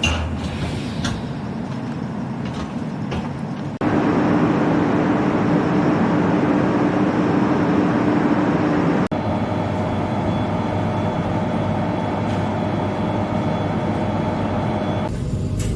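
Steady running rumble of a vehicle in several edited clips, with the sound changing abruptly about four seconds in, about nine seconds in and again near the end. A steady hum runs through the middle clip.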